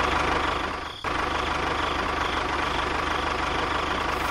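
Diesel tractor engine idling with an even, rhythmic knock; it drops out briefly about a second in and comes straight back.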